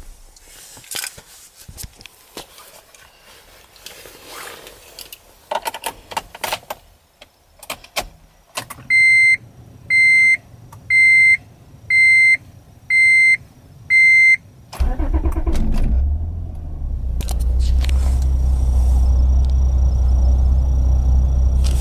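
Clicks and knocks of someone settling into a 2004 Acura TL, then six evenly spaced dashboard warning beeps, about one a second. About fifteen seconds in, the car's 3.2-litre V6 cranks and catches on a cold start, then idles steadily with a low, even hum, dipping briefly before settling at a raised cold idle.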